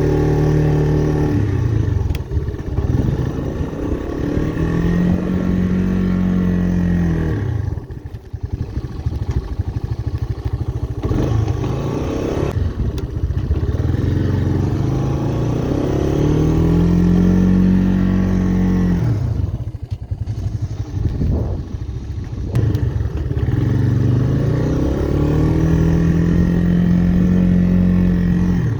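1985 Honda ATC Big Red 250ES three-wheeler's single-cylinder four-stroke engine working under load while plowing snow, revving up and dropping back three times.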